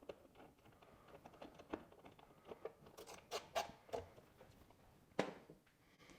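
Faint, irregular clicks and scrapes of a hand tool and metal parts being handled as a bolt is snugged up by hand, with a few sharper knocks about three to four seconds in and one just after five seconds.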